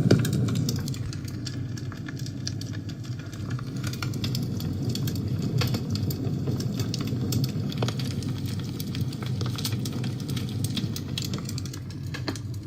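Wood fire burning in a fireplace: a steady low rumble of flames with frequent sharp crackles and pops, a louder pop right at the start. The sound cuts off abruptly at the end.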